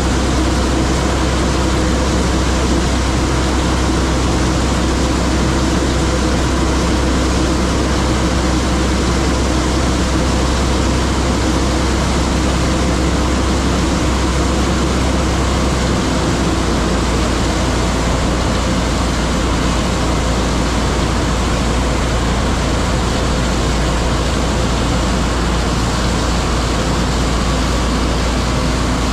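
Heavy farm machinery running steadily under load, a constant mechanical din with a deep engine hum that shifts slightly about halfway through.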